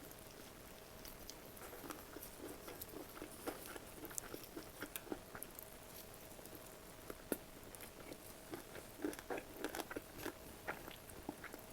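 Close-miked eating sounds: crunchy bites and chewing in clusters of small crackles and clicks, with a faint steady hum underneath.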